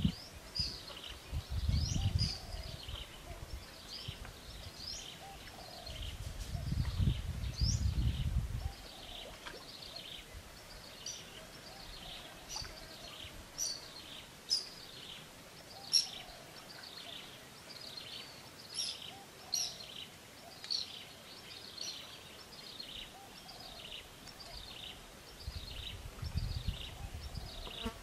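Small birds in the surrounding trees chirping over and over with short, high, falling notes. Low rumbles come twice in the first nine seconds and again near the end.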